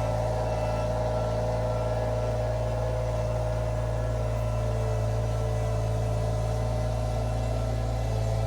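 Iron Rhino IR1200 mini skid steer's engine running at a steady speed, a constant drone with no change in pitch.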